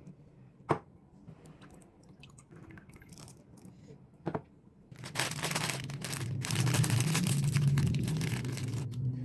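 Plastic snack wrapper crinkling and tearing open. Two sharp clicks come first, then a loud, continuous rustle from about halfway in.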